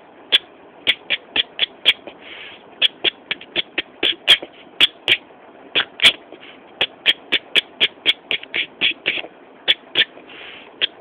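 A quick, uneven run of sharp ticks, several a second, keeping time with hand movements, broken by two short hisses.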